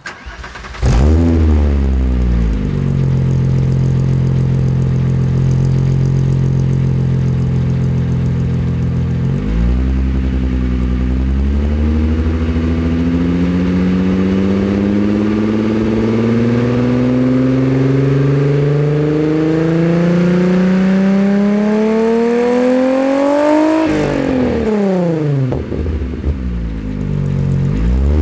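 VW VR6 engine exhaling through a Euro Sport cat-back exhaust (mid-resonator, muffler, no catalytic converter). It starts about a second in and flares then settles to a steady idle, then revs slowly and evenly climbing for about fourteen seconds before the throttle is dropped and the revs fall quickly, followed by a short blip near the end.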